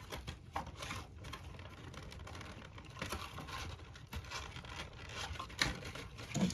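Small model-kit parts, wires and packaging handled on a work table: light clicks, rustling and crinkling, with a sharper knock near the end.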